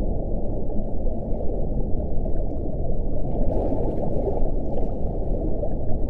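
Steady wind: a low, even rushing with no single gust standing out.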